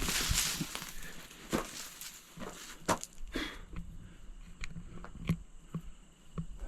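Footsteps pushing through overgrown brush, with leaves rustling and twigs snapping underfoot. Faint insect calls come in from about four seconds in.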